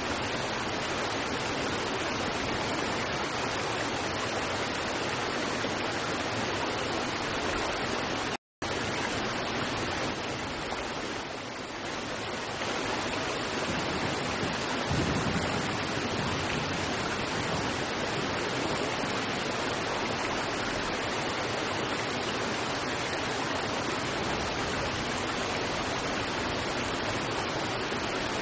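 River water rushing steadily over rocks, a dense even roar of flowing water. The sound cuts out completely for a split second about a third of the way in.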